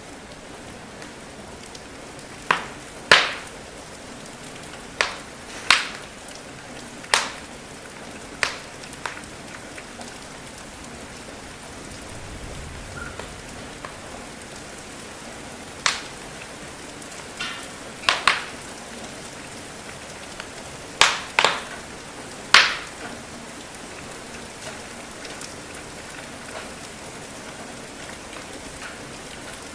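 Steady rain patter with a wood fire crackling over it: about a dozen sharp, irregular pops and cracks from burning logs, bunched in the first ten seconds and again around the middle, louder than the rain.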